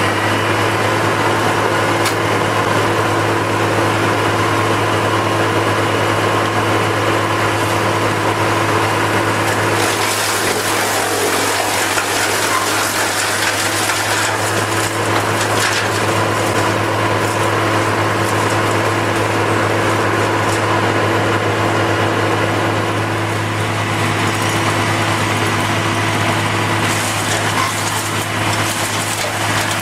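A machine's engine running steadily, with a constant low hum under a broad hiss; the hiss changes character about ten seconds in.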